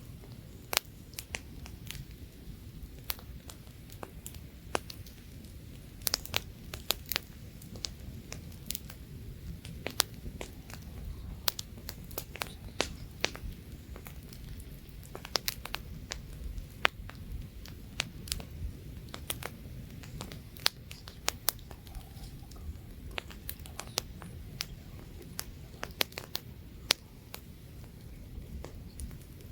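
Campfire crackling and popping: many sharp, irregular snaps from burning wood over a low steady rumble of flame and light wind.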